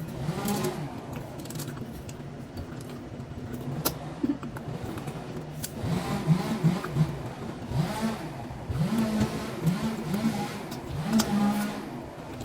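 Engine noise from nearby machinery or a vehicle, with its pitch rising and falling in short sweeps several times in the second half, and a few sharp clicks.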